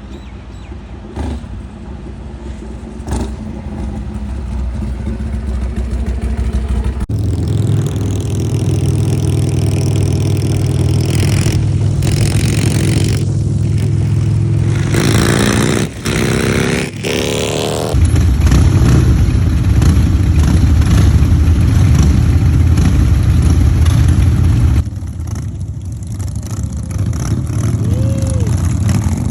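Harley-Davidson motorcycle engines running on the move, getting louder over the first several seconds. About halfway through, the engine note rises in pitch as the bike accelerates. The sound changes abruptly a few times.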